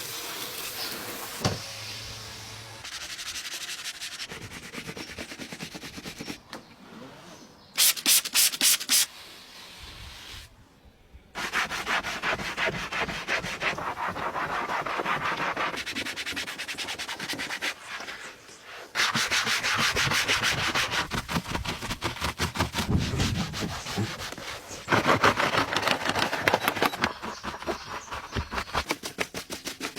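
Scrubbing and rubbing on a car's surfaces during cleaning: rapid, dense strokes in several separate stretches that cut in and out abruptly, with a brief run of a few loud, even strokes about eight seconds in.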